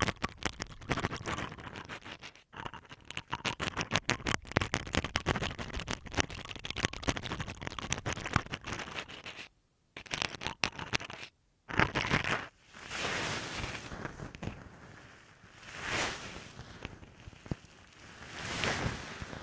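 Toothbrush bristles scratching rapidly over masking tape on a recorder's microphone, a dense crackly scratching that breaks off twice. From about twelve seconds in, a fluffy bonten puff is swept over the taped microphone in slow, soft swishes that swell and fade.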